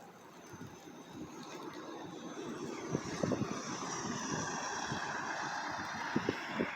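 A passing vehicle or aircraft engine, its noise swelling about two and a half seconds in and holding, with a slowly falling pitch, over scattered soft thumps.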